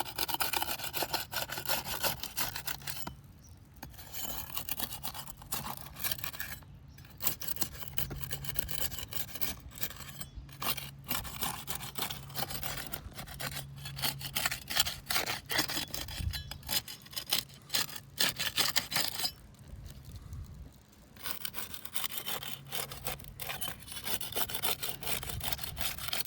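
Rapid rasping, sawing strokes of a hand tool working under asphalt roof shingles to cut or pry out the nails holding them, pausing briefly a few times.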